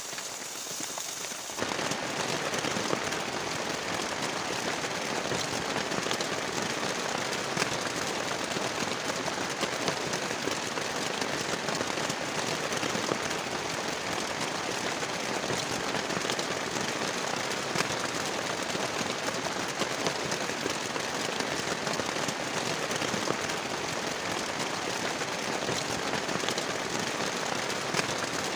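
Heavy rain falling, a dense, steady patter of drops with many small crackling hits; it steps up louder about a second and a half in.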